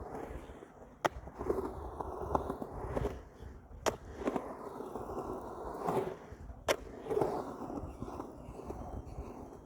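Skateboard wheels rolling over rough ground, the rumble swelling and fading, with three sharp clacks of the board roughly three seconds apart.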